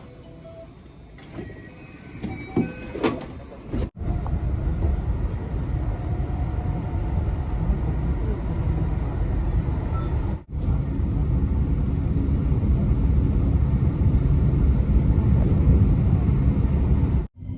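Train running: a loud, steady low rumble that starts about four seconds in after a few faint knocks, and breaks off briefly twice.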